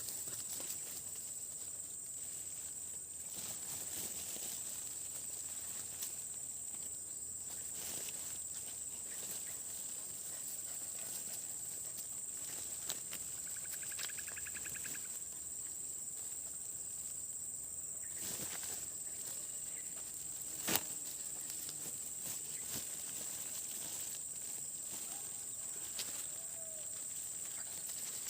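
Steady high-pitched insect chorus, with scattered clicks and knocks throughout; a sharp knock about 21 seconds in is the loudest, and a short pulsed trill sounds about 14 seconds in.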